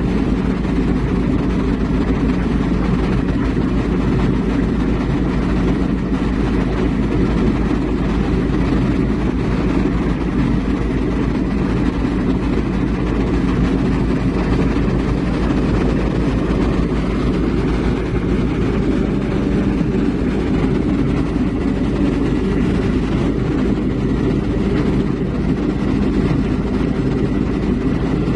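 Heavy diesel engine running steadily under a constant load, a deep even drone with no changes in speed.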